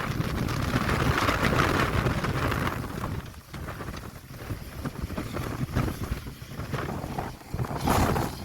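A light-railway locomotive running, heard through wind buffeting the microphone. It is louder for the first three seconds, then quieter, with a brief swell near the end.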